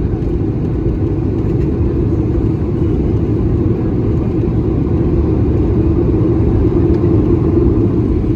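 Cabin noise inside a Boeing 737-800: a steady low rumble from its CFM56-7B jet engines and the airframe, slowly building in level.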